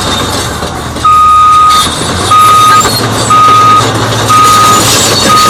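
Cat D8T bulldozer reversing: its backup alarm beeps about once a second over the running diesel engine. The first beep, about a second in, is longer than the rest.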